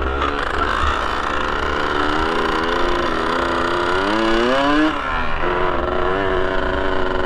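Yamaha RX 115 two-stroke motorcycle engine running, heard on board the bike; the revs climb steeply about four seconds in and fall away a second later.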